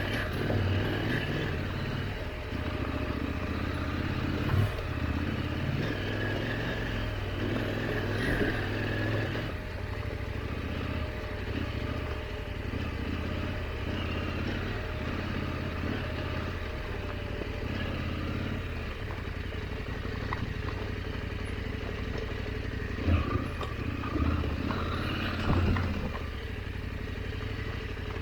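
KTM 890 Adventure's parallel-twin engine running steadily under light throttle on a rough dirt trail, with a few sharp knocks and clatter from the bike near the end.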